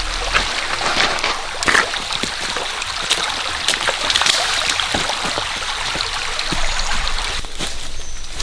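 A stream flowing steadily over rocks, with scattered short splashes.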